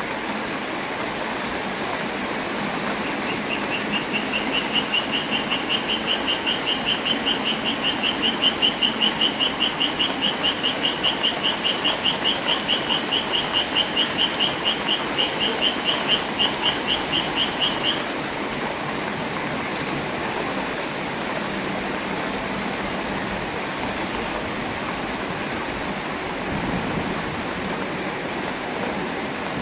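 Steady rain falling. A high call repeats about four times a second for some fifteen seconds before stopping about two-thirds of the way through.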